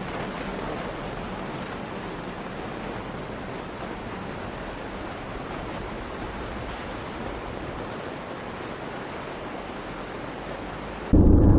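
Steady rushing noise with no clear source. About eleven seconds in it cuts off suddenly and is replaced by a much louder low rumble.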